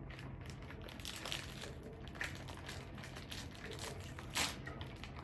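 Plastic snack wrapper crinkling as it is opened and handled, with one louder crackle about four seconds in.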